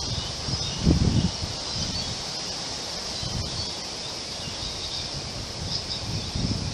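Strong wind gusting through forest trees with leaves rustling in a steady hiss. Low rumbling surges come where gusts hit the microphone, the strongest about a second in. Faint bird calls sound over the wind.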